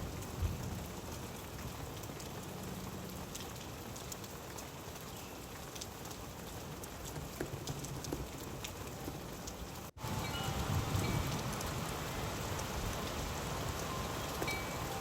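Steady rain falling, with scattered drops pattering on a surface. About ten seconds in, the sound cuts out for an instant and resumes slightly louder.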